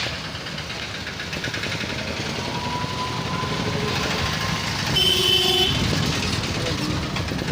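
Steady road-traffic noise with a constant low rumble, and a vehicle horn honking once, briefly, about five seconds in.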